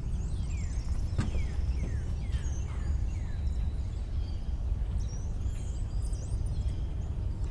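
Songbirds calling outdoors: a run of short, falling whistled notes in the first three seconds, then higher chirps, over a steady low rumble. A single click about a second in.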